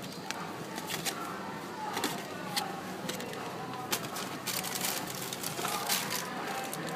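Supermarket ambience: a steady low hum with scattered sharp clicks and knocks.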